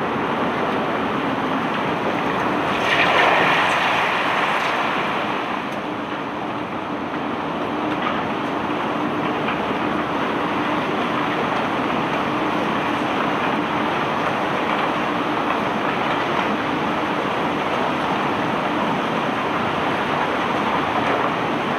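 Steady mechanical noise of barge unloading machinery working a cargo of cobblestones. A louder rush of noise comes about three seconds in and fades over the next few seconds.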